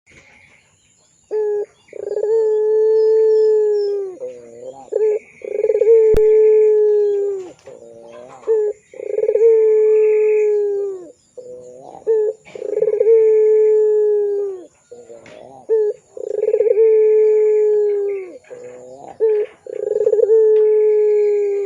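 Puter pelung, a domestic barbary dove, cooing. It gives long, drawn-out coos of about two seconds each, repeated every three to four seconds, with short rolling notes between them.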